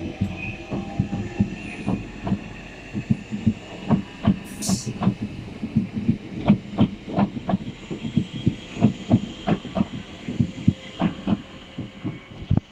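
Class 465 Networker electric multiple unit rolling through the station, its wheels clacking over rail joints and pointwork in a quick, uneven rhythm over a low rumble, with a faint steady high whine.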